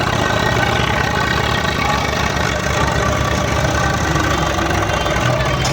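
Diesel engine of heavy farm or earthmoving machinery running steadily at low revs, with an even low chugging pulse.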